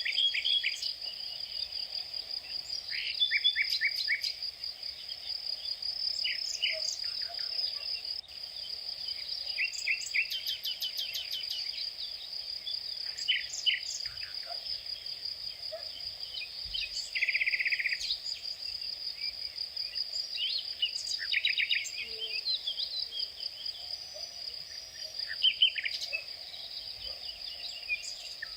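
A steady, high-pitched insect drone, crickets or similar, runs throughout. Over it, several birds give short chirps, quick trills and rapid call series.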